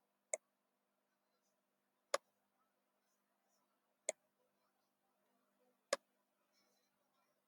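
Four sharp computer-mouse clicks, about two seconds apart, over faint room tone.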